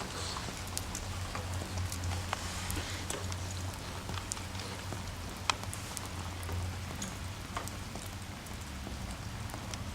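Rain falling steadily, an even hiss with scattered drops ticking sharply, over a steady low hum.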